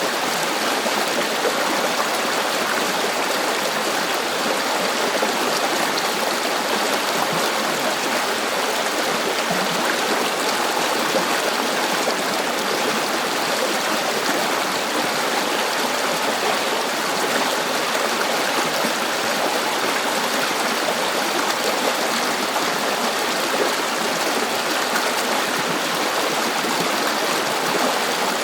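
A river flowing over stones: a steady rushing babble of water that keeps an even level throughout.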